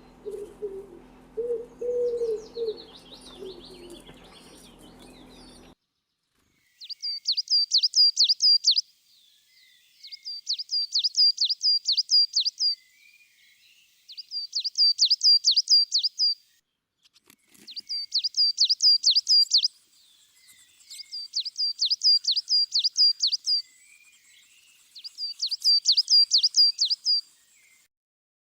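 Birdsong: a few low coos at the start over a faint hum, then after an abrupt break six repeated phrases of quick high chirps, each phrase about two seconds long with short pauses between.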